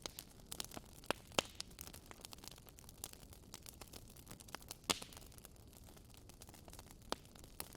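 Wood fire crackling in a fireplace: irregular sharp pops and snaps over a low hiss, with a louder pop about a second and a half in and another near five seconds.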